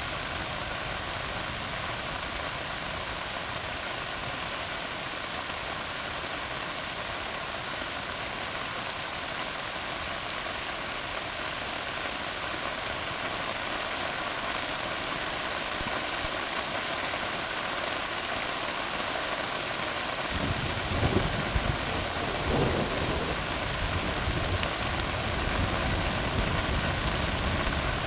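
Steady rain falling on a tarred road, an even hiss of drops. About two-thirds of the way through, a low rumble of thunder sets in and carries on.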